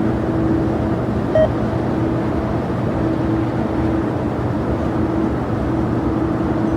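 Jet airliner engines running: a steady rumble with a constant hum. A short beep sounds about a second and a half in.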